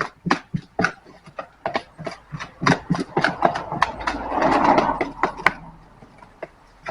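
Flat stirrer scraping and knocking around a plastic ice cream container while mixing epoxy thickened with filler powder: a quick run of clicks and scrapes, with one longer scrape about four to five seconds in.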